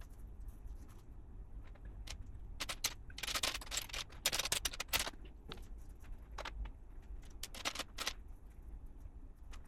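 Plastic LEGO pieces clicking and rattling as they are handled and snapped together, with a denser clatter of pieces from about three to five seconds in.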